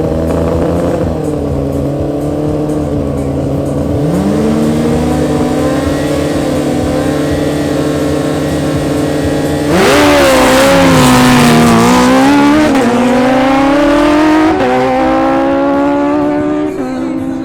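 Two Suzuki sport bikes, a GSX-R1000 and a Hayabusa, their inline-four engines running at the start line. About ten seconds in they launch at full throttle, the engine notes climbing and dropping back with each upshift, three times.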